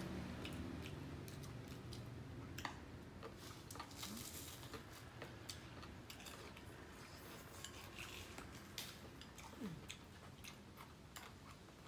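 Faint crunching of crispy prawn crackers and crunchy pig-ear and seaweed salad being chewed, heard as irregular sharp crackles, with now and then a light click of chopsticks against a ceramic bowl.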